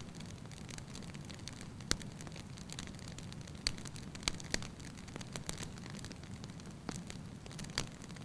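Wood fire burning in a fireplace: a steady low rush of flame with irregular sharp crackles and pops, the loudest about two seconds in and again near the end.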